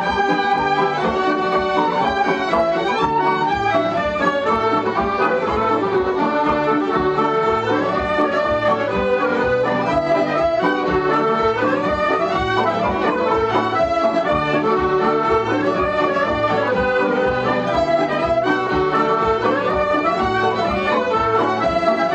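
Irish céilí band music: a lively traditional dance tune led by accordion, with a steady bass pulse.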